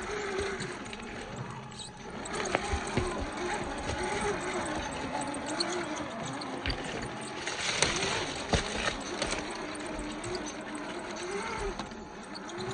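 Electric motor and drivetrain of an RC rock crawler whining, the pitch rising and falling with the throttle, with a few sharp knocks as the truck climbs over rock.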